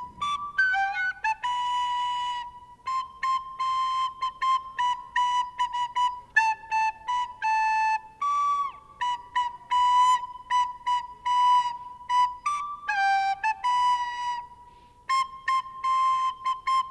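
Solo flute playing a quick passage of many short, detached notes within a narrow range, with a few longer held notes in between.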